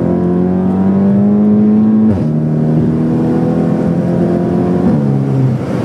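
Volkswagen Golf GTI's turbocharged four-cylinder engine heard from inside the cabin, accelerating through the gears: the engine note climbs steadily, drops with an upshift about two seconds in, climbs again and drops with a second upshift near the end.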